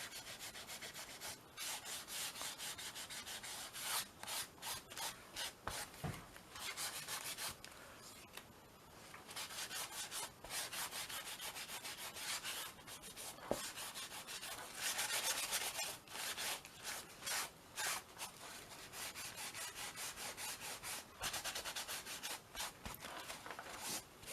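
Paper tissue rubbing over a painted canvas, wiping off wet colour in quick repeated strokes, with a short lull about eight seconds in.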